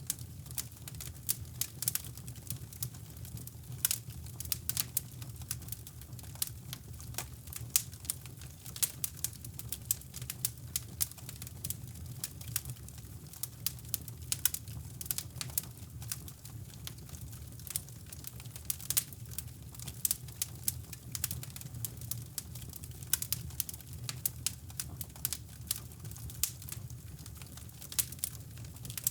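Wood fire crackling in a fireplace, with dense, irregular sharp snaps and pops, over a steady low brown-noise rumble.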